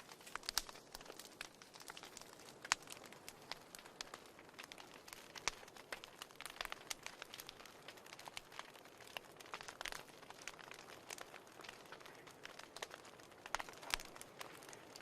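Wood fire burning in a fireplace, crackling: irregular sharp pops and snaps over a soft steady hiss, with a louder snap now and then.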